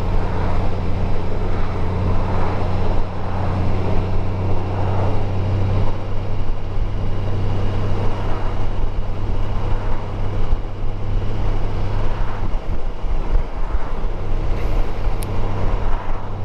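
Motorcycle being ridden at a steady pace: a steady low engine hum under continuous wind and road noise on the rider's camera microphone.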